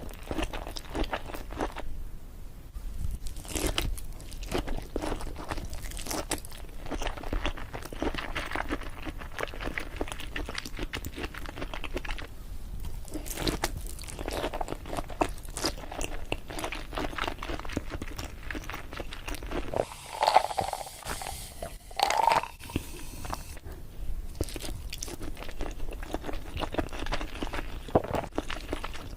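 Close-miked eating of salmon sushi rolls: continual chewing and biting, with short lulls, and two louder mouth sounds about twenty seconds in.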